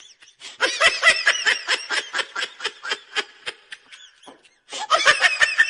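A person laughing hard in rapid, high-pitched pulses, two bouts with a short pause between them.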